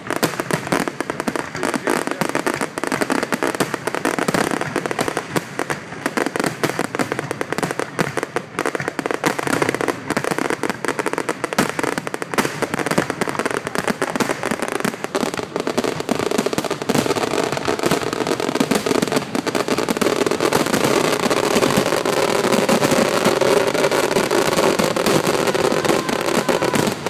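Fireworks grand finale: a dense, unbroken barrage of bangs and crackling from many shells and firecrackers going off at once, growing denser and a little louder in the last third.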